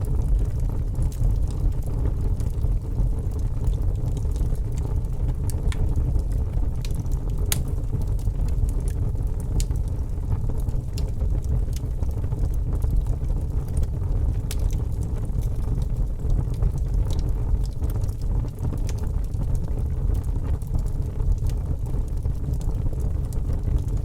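Wood fire in a fireplace crackling: sharp pops and snaps at irregular times over a steady low rumble.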